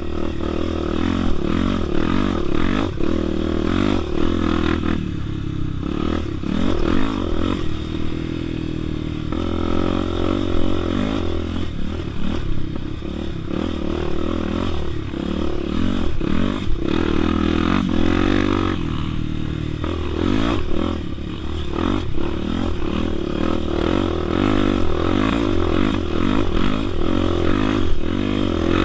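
Honda Tornado 250 single-cylinder four-stroke motorcycle engine running as it is ridden off-road, its pitch rising and falling with the throttle. Frequent clattering and knocking runs through it.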